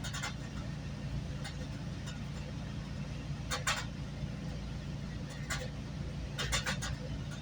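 GO Transit commuter train in motion, heard from inside the coach: a steady low rumble with a held low hum, and a few sharp clicks and clacks, a pair about halfway through and a quick cluster near the end.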